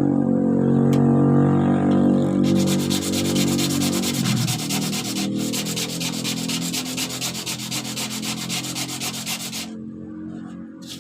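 Sandpaper scratching rapidly over the surface of a surfboard, scuffing the area around a ding so resin will bond. The quick, rhythmic scratching starts a couple of seconds in and stops shortly before the end, over fading background music.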